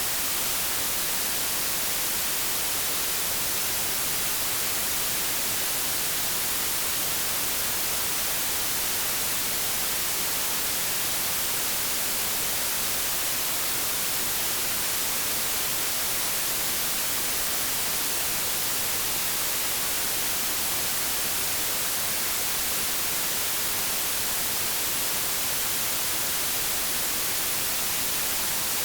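Steady white-noise static, like an untuned TV or radio: an even hiss, strongest in the highs, that does not change.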